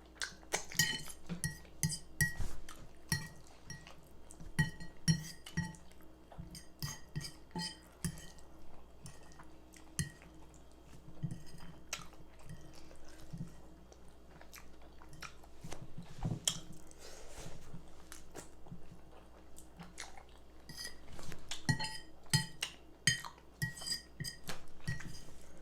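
Fork or spoon clinking and scraping against a plate, many short sharp taps, some with a brief ring, along with chewing of baked chicken and rice.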